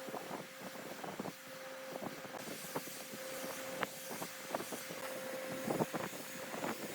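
A small motor running with a steady hum, overlaid by irregular clicks and knocks of metal parts.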